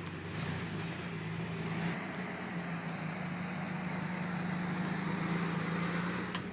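A motor vehicle's engine running with a steady low hum, with broad road or wind noise over it.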